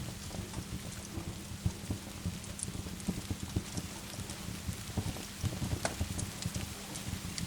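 Steady rain with the irregular crackling and popping of a wood fire.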